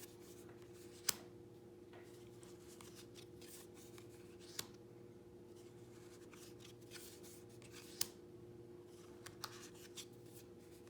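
Tarot cards being flipped through by hand: soft card handling with a few sharp clicks as cards are snapped over or laid down, the loudest about a second in, others near the middle and later. A steady faint hum runs underneath.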